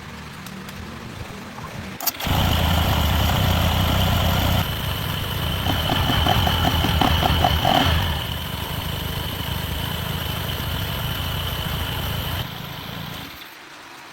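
A motor switched on with a click, running steadily for about ten seconds with a brief run of quick ticks in the middle, then cut off.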